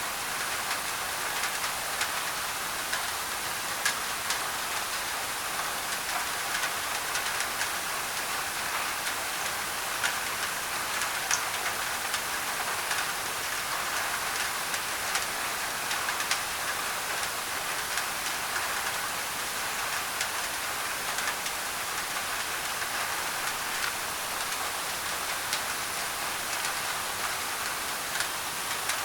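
Steady rain drumming on a thin tin roof: a dense, even hiss with scattered sharp drop taps.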